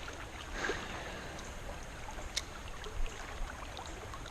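Creek water running steadily over rocks, with a few small clicks and a short knock about two and a half to three seconds in.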